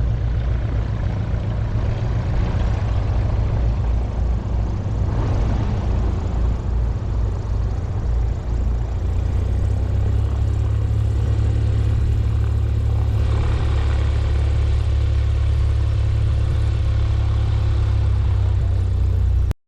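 Light aircraft piston engine running steadily at low power, its low note shifting about halfway through, then cut off abruptly near the end.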